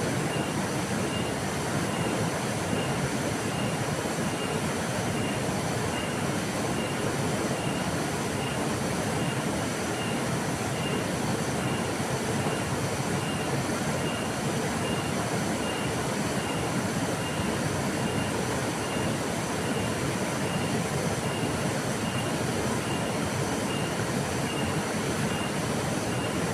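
Steady rush of a flowing river: an even, unchanging water noise, with a faint high pip repeating a little under twice a second.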